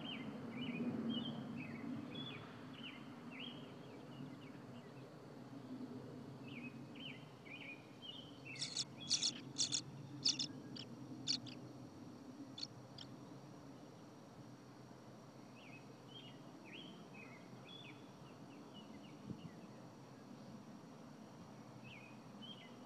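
Tree swallows chirping in repeated clusters of short, quick notes, with a run of several loud, sharp chirps about nine seconds in, over a low steady background hum.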